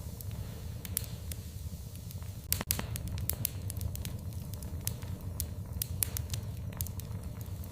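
Fireplace fire crackling, with frequent sharp pops and snaps over a steady low rumble of the flames; one louder double pop about two and a half seconds in.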